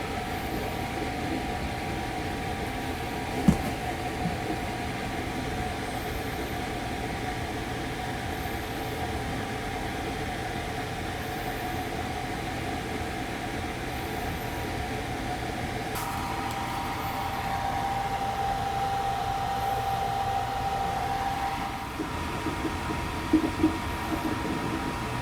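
Steady running noise of a 285 series Sunrise Express sleeper train heard from inside a compartment: a low rumble with a faint steady whine. There is a sharp knock about three and a half seconds in, the whine grows a little louder for several seconds past the middle, and a few clicks come near the end.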